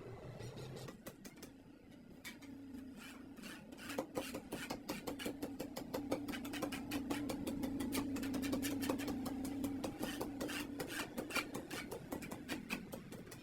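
Radiator workshop machine work: rapid, irregular clicking several times a second over a steady machine hum that swells in the middle and fades near the end.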